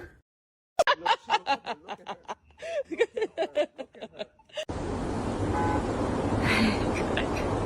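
A person laughing in rapid short bursts for about four seconds. It is cut off by a steady rushing noise that carries one brief short tone.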